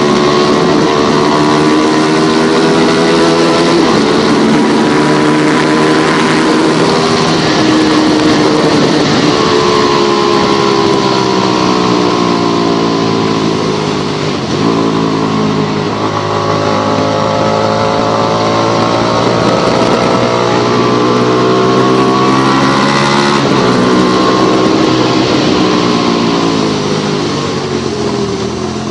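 Motorcycle engine running under way, its pitch climbing and dropping several times as the rider accelerates and shifts gears, over a steady hiss of wind and wet road.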